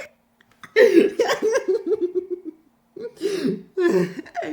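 A man laughing in two bursts of short, rapid pulses, the first about a second in and the second near the end.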